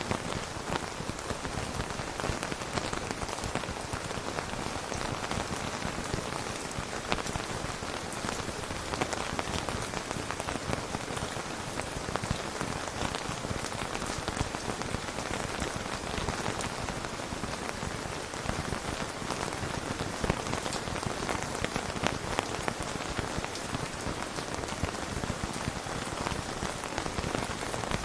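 Steady heavy rain falling on a hard surface, a dense patter of drops.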